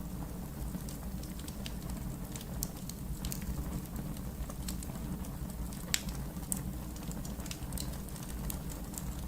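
Wood fire burning in a fireplace: a steady low rumble with scattered crackles and pops, the sharpest about six seconds in.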